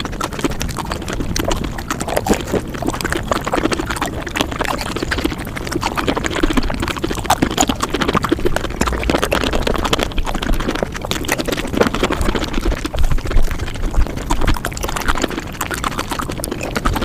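Mukbang eating sounds sped up to five times normal speed: chewing and mouth noises close to the microphone, a dense unbroken run of rapid clicks.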